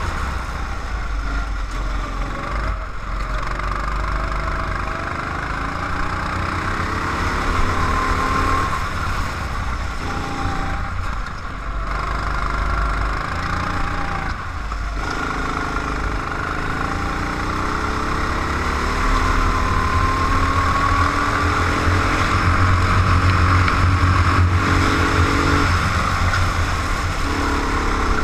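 Competition car's engine heard from onboard, running hard with revs rising and falling through acceleration, braking and corners, over a low rumble and road noise.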